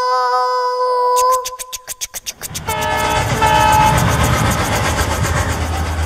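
A train horn holds one steady note and stops about a second in. Then the wheels come in as a fast, even clicking on the rails and build into the loud, steady rumble of a train running.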